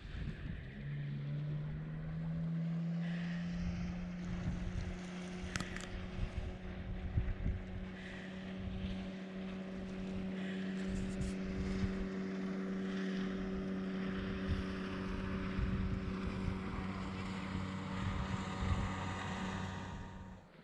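A small motor running at a steady pitch, rising briefly about a second in and then holding, with wind buffeting the microphone; it cuts off suddenly at the end.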